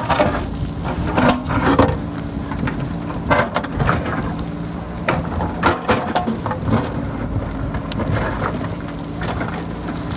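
JCB backhoe loader's diesel engine running steadily under load, with irregular cracks and crunches of rock and soil as the bucket digs into the hillside, and wind on the microphone.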